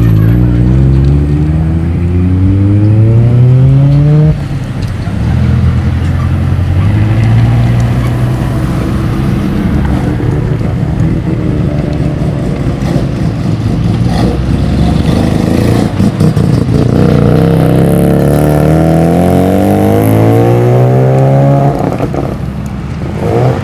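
Car engines accelerating away. One climbs in pitch for about four seconds and drops off abruptly, then there is a steadier stretch, then another long rising pull in the second half, and a short rev near the end.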